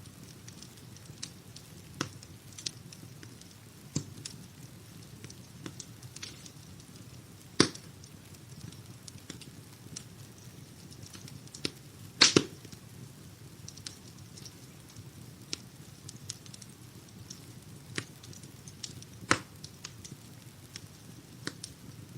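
Wood fire crackling in a fireplace: a steady low rumble under irregular sharp pops and snaps, with louder pops about a third of the way in, a quick double pop about halfway, and another near the end.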